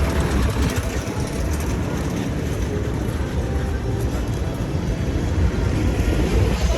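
Street ambience of city traffic: a steady rumble of passing vehicles, with voices faintly in the mix.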